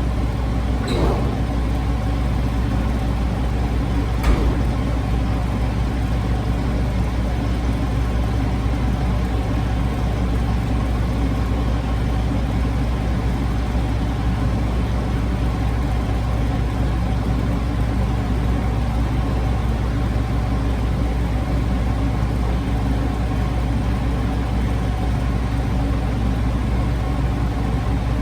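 Steady motor drone with a strong low hum, unchanging throughout, with two brief knocks about one and four seconds in.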